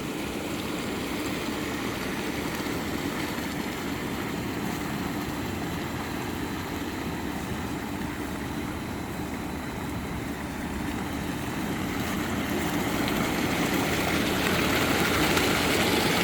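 Water pouring from a home-made waterfall into a hot tub: a steady rushing splash over a low hum, growing louder in the last few seconds.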